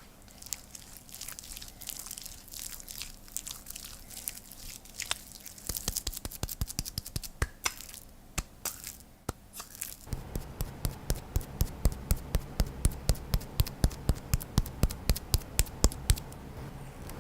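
Soapy wet hands being washed: irregular crackly, squishy rubbing at first. About ten seconds in it gives way to a steady rhythmic wet slapping, about four a second, over a louder hiss, and this stops shortly before the end.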